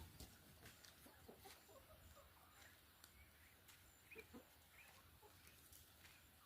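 Near silence: faint outdoor ambience with a few faint, short bird calls scattered through it.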